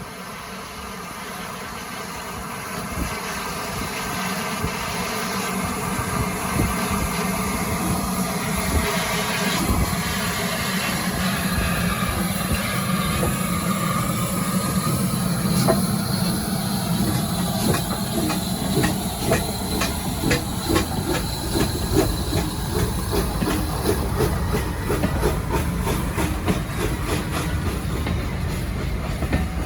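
Steam locomotive with hissing steam, growing louder over the first few seconds as it approaches, then a rapid regular clicking of train wheels over the rails building through the second half.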